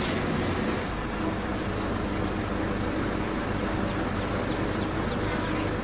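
Steady low mechanical hum of engines or machinery, with a few faint short high chirps about halfway through.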